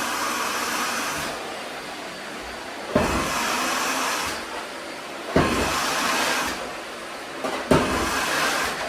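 Vacuum cleaner running, its noise swelling and dropping in repeated strokes about every two and a half seconds, each louder stretch starting with a knock.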